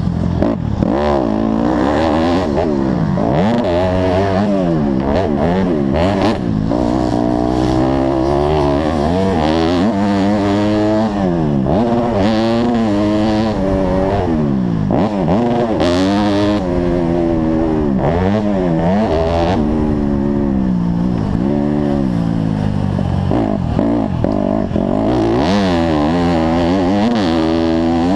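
Motocross bike engine revving hard, its pitch climbing and dropping again and again with throttle and gear changes.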